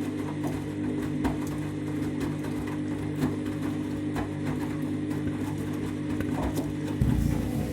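Candy front-loading washing machine running mid-wash: a steady motor hum with soft knocks about once a second as the drum turns the wet load. A louder, rougher low rumble starts near the end.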